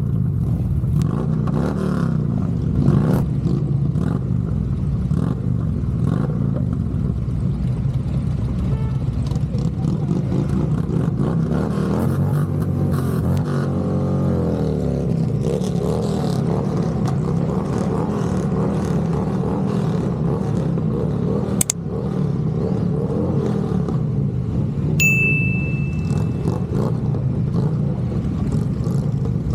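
Motorcycle engine running under way, with its pitch sweeping up and down a few times around the middle as the rider changes speed. A sharp click comes near the end, followed by a short high beep.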